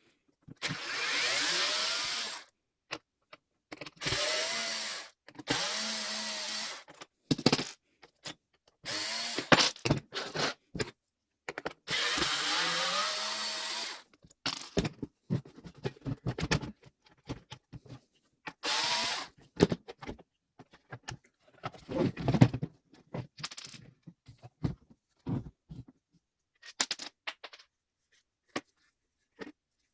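GRUNDER GY2191 18V battery-powered chainsaw's electric motor run in five short bursts of one to two and a half seconds, each rising to a steady whine. Between the bursts come scattered clicks and knocks, with one heavy thump about two-thirds of the way through.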